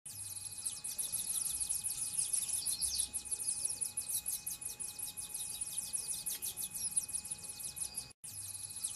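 Many small birds chirping in a fast, continuous high-pitched chatter, with a faint steady tone underneath. The sound breaks off for a moment about eight seconds in.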